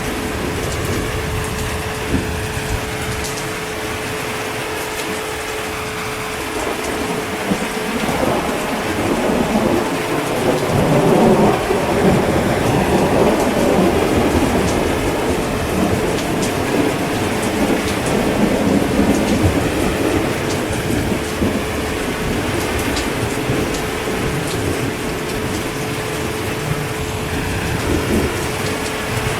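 Steady heavy rain, with a roll of thunder that swells about eight seconds in, is loudest around twelve seconds and fades away by about twenty seconds.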